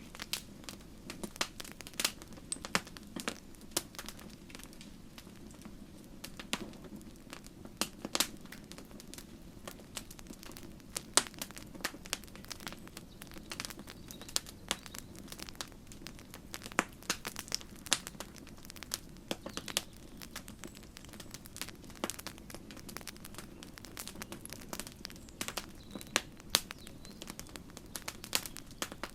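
Campfire crackling: irregular sharp pops and snaps, several a second, over a steady low rush of the burning fire.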